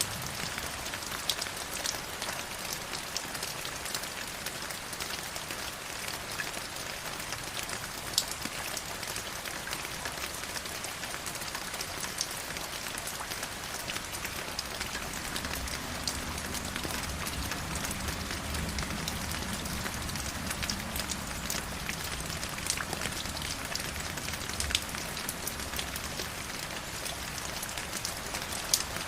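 Stream water flowing and splashing: a steady hiss with scattered sharp drips and plops. A deeper rushing joins from about halfway.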